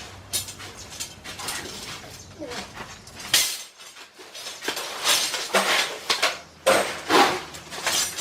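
A string of irregular clinks and clatters of hard objects knocking together.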